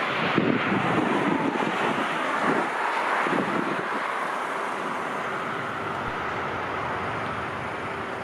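Wind buffeting the microphone in irregular gusts over a steady rushing noise that slowly fades.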